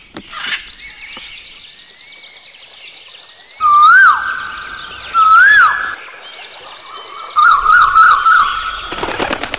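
Recorded animal and bird calls edited into a song: two loud whistled calls, each sweeping up and then down in pitch, then a quavering trill, over a faint outdoor background, with a short loud burst near the end.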